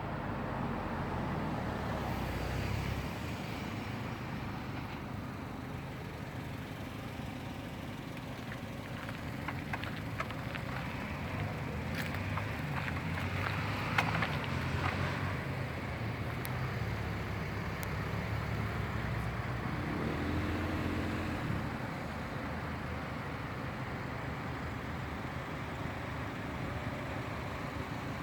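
Steady road-vehicle and traffic noise, with a few sharp clicks and a brief louder moment about halfway through.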